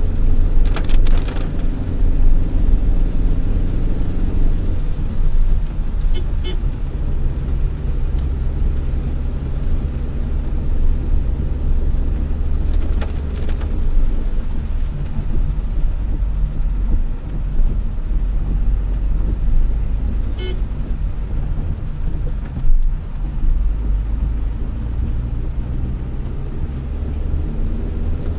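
Cabin sound of a Honda Elevate's 1.5-litre petrol engine driving on wet road: a steady low drone of engine and tyre noise whose pitch shifts now and then, with a few short, faint clicks.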